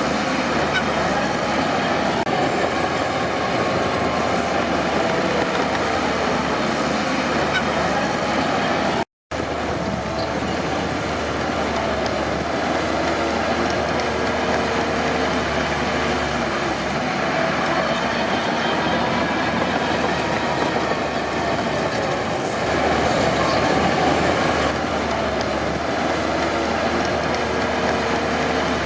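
Crawler bulldozer working, its diesel engine running steadily under the metallic grinding of its steel tracks. The sound cuts out completely for a moment about nine seconds in, then carries on.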